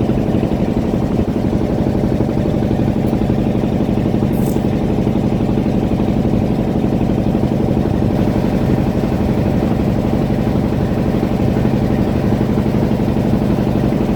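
Fishing boat's engine running steadily at a constant speed, a continuous low drone.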